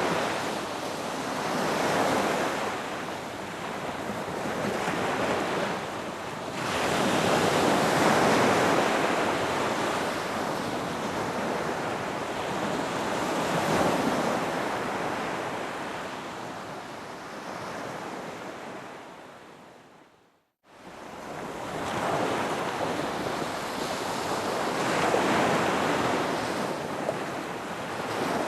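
Ocean surf: waves breaking and washing up a beach, the rush swelling and easing every few seconds. About twenty seconds in, the sound fades to a moment of silence, then cuts straight back in.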